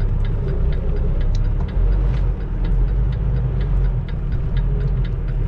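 Semi-truck diesel engine idling, heard from inside the cab, with the turn signal ticking steadily.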